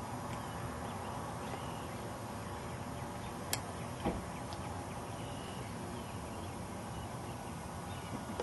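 Open-field ambience: a steady wind-like hiss with faint, scattered bird chirps, and a sharp click about three and a half seconds in.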